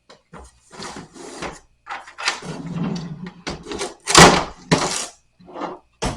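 Knocking, scraping and clattering as the parts of a night stand are handled and pulled apart, with a string of sharp impacts and the loudest knock about four seconds in.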